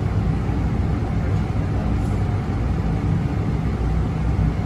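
Steady low rumble of airflow and engine noise inside a Boeing 787 cockpit on short final approach.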